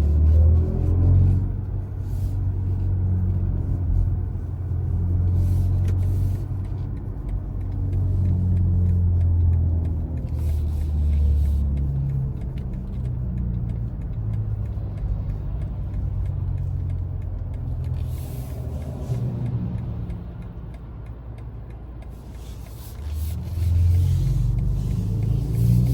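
BMW i4 M50 electric car driving, a steady low road rumble with a pitched drive tone that falls away near the start and rises again twice later as it speeds up.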